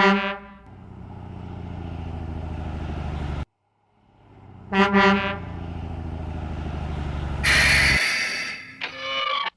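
Truck horn toots, then an engine runs, growing louder, and cuts off abruptly about three and a half seconds in. Two more quick horn toots come about five seconds in and the engine runs again, then a loud hiss about eight seconds in is followed by another short horn note.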